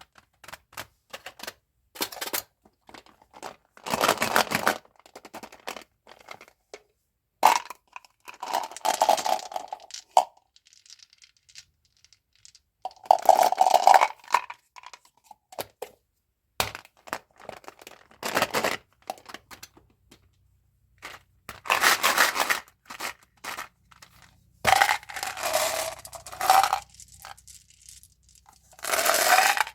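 Candy and gum wrappers being handled and opened: plastic packaging crinkling and tearing in bursts of up to about a second and a half, with sharp clicks and small taps between them.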